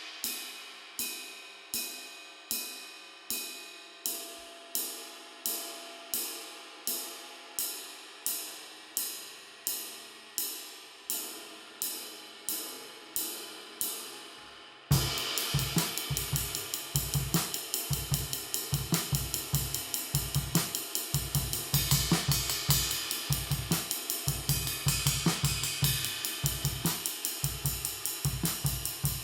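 Turkish Cymbals Cappadocia Series 22-inch ride cymbal struck alone in even, ringing strokes, about three every two seconds. About fifteen seconds in, a full drum kit comes in suddenly with bass drum and snare, and the ride keeps time over the groove.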